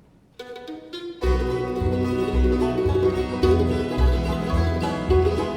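Bluegrass band striking up an instrumental intro. A few lone plucked notes come first, then about a second in the whole band comes in with a steady bass beat.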